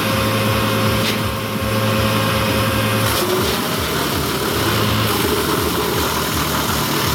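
Engine of a heavy machine running steadily with a low, even hum and throb; a faint higher whine drops out about three seconds in.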